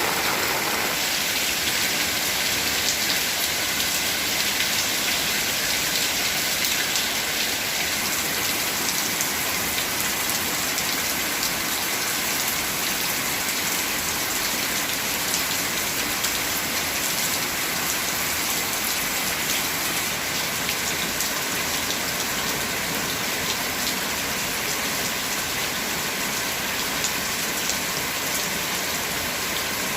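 Heavy rain falling steadily, a dense even hiss of rain on surfaces with scattered individual drops.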